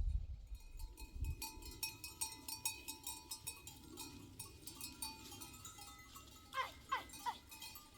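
Bells on a flock of sheep and goats clanking irregularly as the animals move. Three quick falling calls come near the end.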